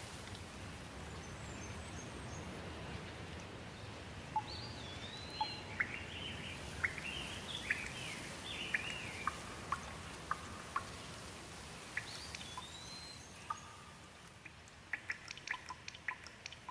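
Steady light rain hissing, with birds calling in short rising and falling chirps over it from about four seconds in. Near the end the rain hiss drops and a quick run of sharp ticks, like drips, takes over.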